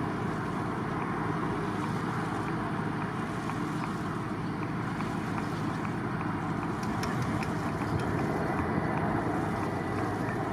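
Jet aircraft engine noise: a steady, unchanging rush with no distinct events.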